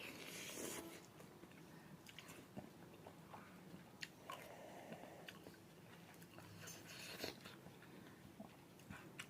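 Person eating: quiet chewing and biting, with small scattered mouth clicks and one louder burst about seven seconds in.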